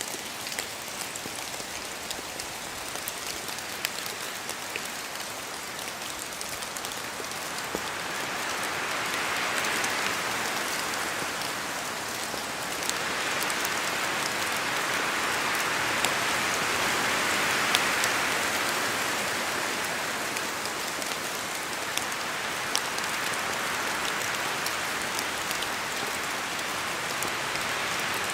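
Steady rain in a spruce forest, with drops falling from the trees in scattered sharp clicks. Wind rises through the branches in two swells, about a third of the way in and again past the middle.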